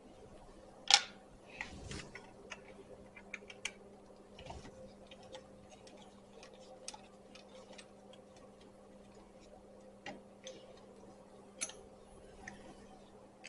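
Light, irregular clicks and taps of hand work on an ATV's recoil starter, with metal and plastic knocking as the screws and cover are worked loose. One sharper knock comes about a second in. A faint steady hum runs underneath.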